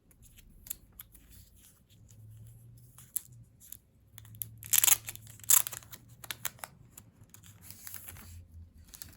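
Paper or plastic packaging of a set of photocards being handled and torn open: scattered small crackles and clicks, with two loud rips about five seconds in and a shorter crinkle near the end.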